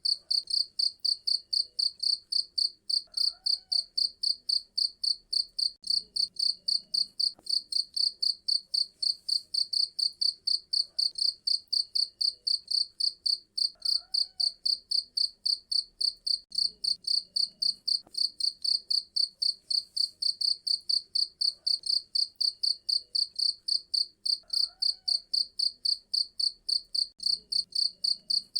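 Cricket chirping steadily in a fast, even rhythm of about four high-pitched chirps a second.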